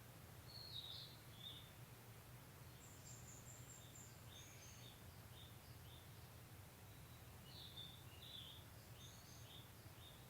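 Faint outdoor morning ambience: small birds chirping in short, high notes scattered through, a little louder about a second in and again near the end, over a steady low background rumble.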